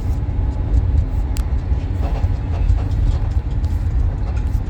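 Steady low rumble from the rear of a Volkswagen car, the noise its owner is recording, with one sharp click about a second and a half in.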